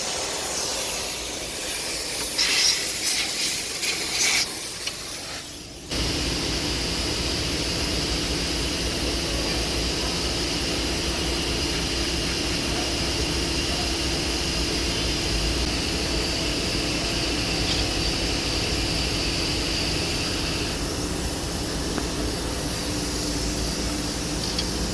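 Compressed air hissing in short blasts as it is blown through a clogged diesel fuel supply line to clear out dirt. About six seconds in it gives way abruptly to a steady noise with a low hum.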